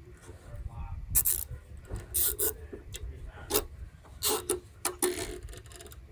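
Irregular clicks and short rasping scrapes of hand work on a small engine, about eight separate sounds spread over a few seconds. No engine running.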